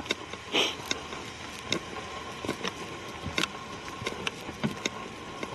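Footsteps on a forest trail: irregular snaps and crunches of twigs and leaf litter underfoot, with a short hiss about half a second in.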